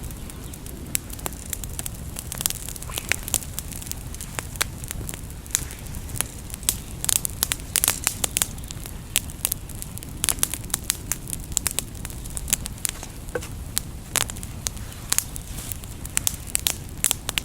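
Freshly lit wood campfire crackling, with frequent irregular sharp pops over a steady low rumble.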